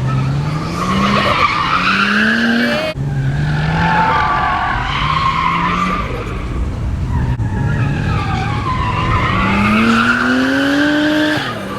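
Nissan R32 Skyline drift car sliding with its tyres squealing, the engine revving up in pitch again and again through the slides.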